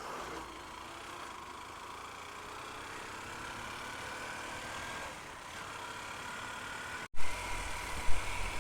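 Honda motorcycle running steadily on the road, its engine under a haze of road and wind noise. About seven seconds in the sound cuts out for an instant, then returns with heavy low wind buffeting on the microphone.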